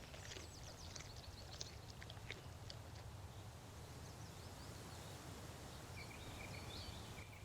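Faint outdoor grassland ambience: a low steady hum with scattered light ticks in the first couple of seconds, and a few short high bird chirps about six seconds in.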